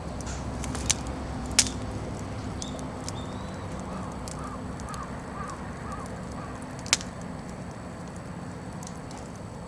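Wood bonfire burning and crackling, with sharp pops from the burning firewood twice near the start and once later, over a steady low rumble.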